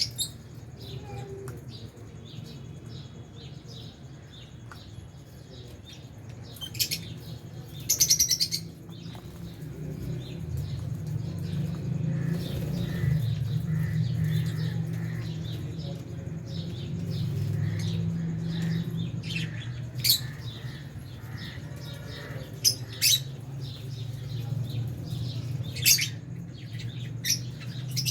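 Lovebirds calling in an aviary: sharp, shrill chirps every few seconds, clustered around a quarter of the way in and again in the last third, with wing flapping among them. A steady low hum runs underneath and swells through the middle.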